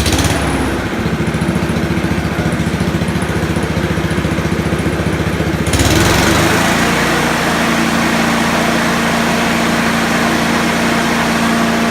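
Honda HRU216 lawnmower's single-cylinder engine running steadily, then speeding up about halfway through and holding at a higher, steady speed. Its governor arm has just been re-set so that the engine reaches full revs.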